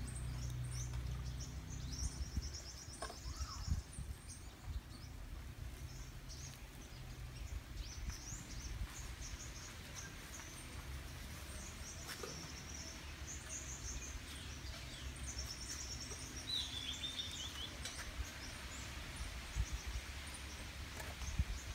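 Small birds chirping with short, high calls scattered throughout, and one brief trilled call about two-thirds of the way in, over a steady low rumble of outdoor background noise.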